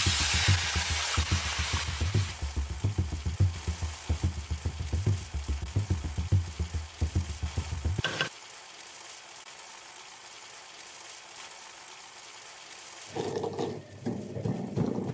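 Raw chicken pieces hitting hot oil in a wok and sizzling loudly, settling to a quieter steady frying hiss about halfway through as they are stirred with a wooden spoon. Near the end, a wooden pestle knocking garlic cloves in a wooden mortar.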